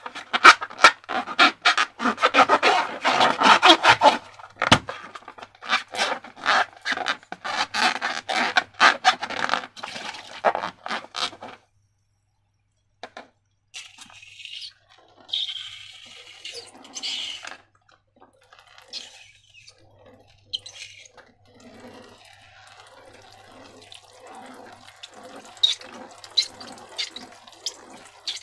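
Slime squelching and crackling with many small wet clicks for about eleven seconds, then a short pause and quieter, sparser squishing.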